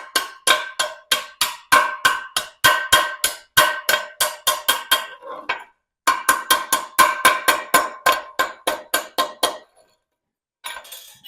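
Chipping hammer beating on a freshly laid 7018 stick-weld bead to knock off slag that does not come off easily. It lands about three or four ringing metal strikes a second, stops briefly a little past halfway, then resumes and trails off near the end.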